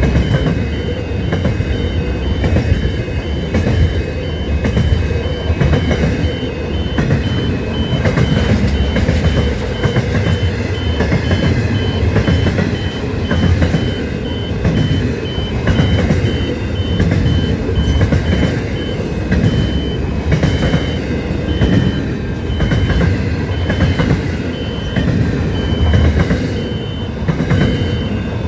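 A train running past with a continuous low rumble and many short knocks from its wheels, over a steady, evenly repeating high-pitched beep.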